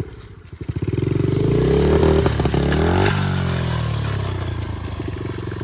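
Small off-road engine revving up over about two seconds, then dropping back in pitch from about three seconds in.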